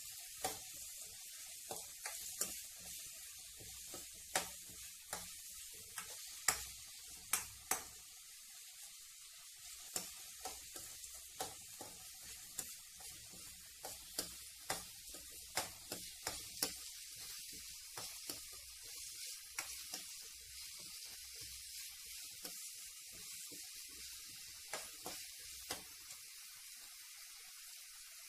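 Chopped tomatoes and onions sizzling steadily as they fry in a stainless steel kadai, with a steel ladle stirring and clicking against the pan many times. The clicks stop near the end while the sizzle goes on.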